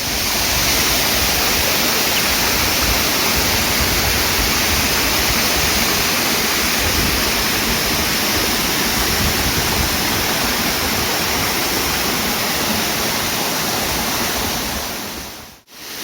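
A waterfall's falling water making a steady, dense rushing noise.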